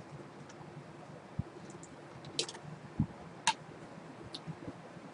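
A handful of short, isolated clicks at a computer, about five spread unevenly over a few seconds, in a quiet room.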